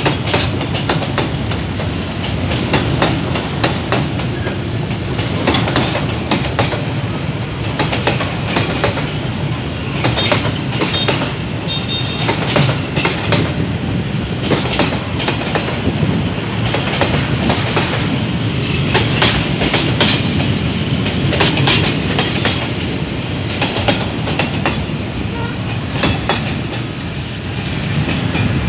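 Freight train of container flat wagons rolling past close by, the wheels clicking and clattering over the rail joints.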